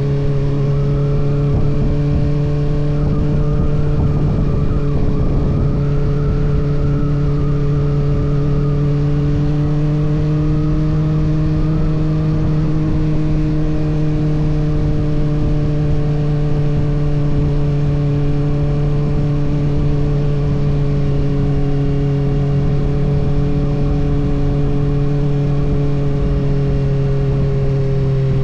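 Kawasaki ZX-6R's 636 cc inline-four running steadily under a held throttle while riding, its pitch rising slightly midway and easing off near the end.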